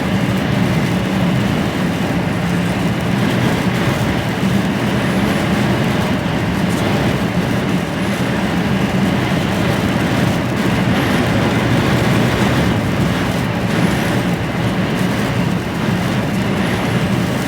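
Steady drone inside the cab of an HGV lorry on the move: a low engine hum under an even rush of road and wind noise.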